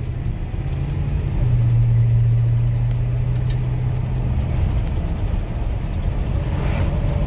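1986 Chevrolet Silverado's 305 small-block V8 running under way, with road noise, heard from inside the cab as a steady low drone that shifts slightly about a second and a half in.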